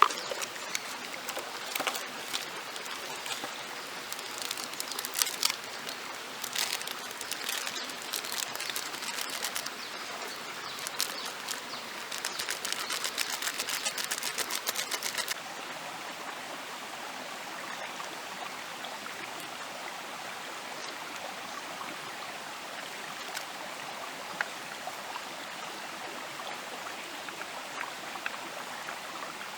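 Dense, fine crackling for about fifteen seconds that cuts off suddenly, over a steady rushing noise like a running stream that carries on alone afterwards.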